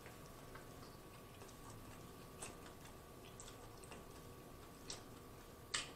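Faint chewing of a bite of corned beef sub sandwich, heard as scattered soft mouth clicks and smacks, a slightly louder one near the end.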